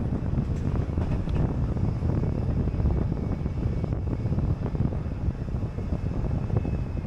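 City bus in motion: a steady low rumble of engine and road noise, with faint rattles.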